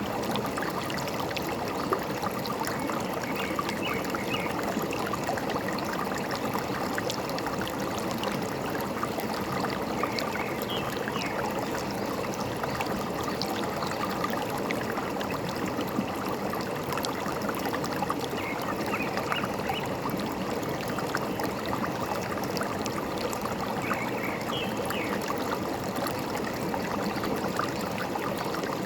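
A forest stream running and trickling steadily, with a bird giving short chirping calls four times, several seconds apart.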